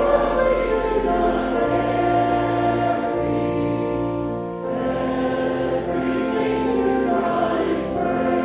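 Congregation singing a hymn in long held notes, with a short break between phrases about halfway through.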